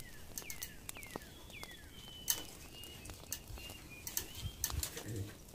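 A bird calling: four quick falling whistles, then a run of short high, even notes. Light clicks and taps are scattered through it.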